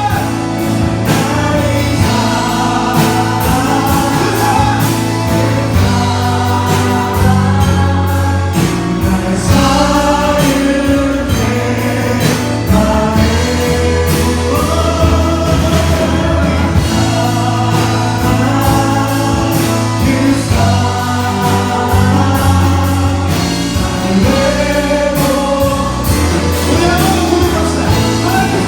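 Youth worship team singing a Korean praise song together, with live band accompaniment keeping a steady beat.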